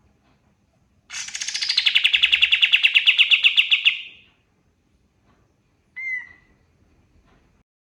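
Kapas tembak bulbul singing: a loud, rapid trill of about eleven notes a second, starting high and dropping to a steady pitch, lasting about three seconds, then a single short call note about two seconds later.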